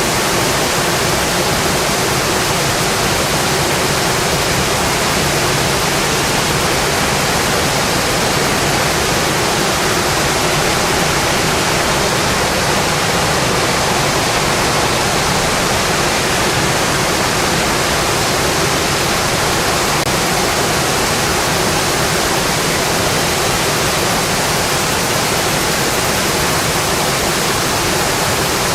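Steady heavy rain on a metal roof: a loud, even hiss that doesn't let up.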